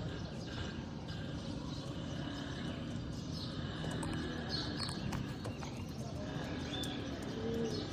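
Racing pigeons in a loft: short high chirps and a few sharp clicks around the middle, over a steady low rumble.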